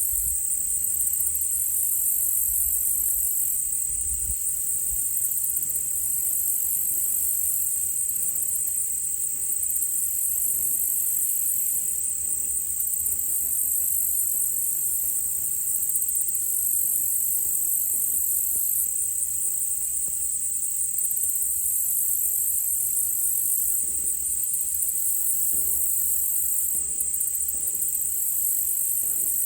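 Insect chorus: a steady, high-pitched drone with a pulsing trill layered above it, over a faint low rumble.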